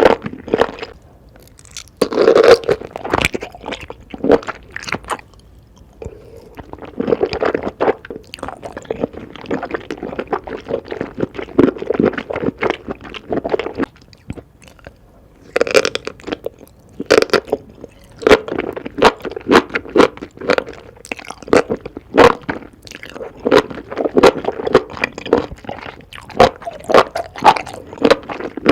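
Close-miked eating: crunching and chewing of food in irregular bouts of sharp crackly bites, with a few brief pauses between mouthfuls.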